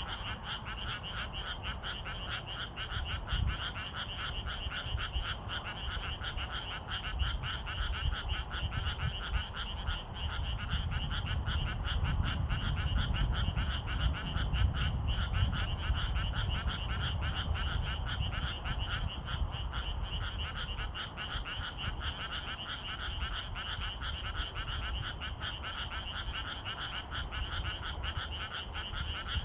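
A dense chorus of many frogs croaking continuously in fast, overlapping pulses. A low rumble sits underneath and swells around the middle.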